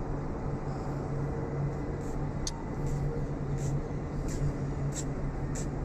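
Steady hum of road traffic, with short high-pitched chirps a few times over it.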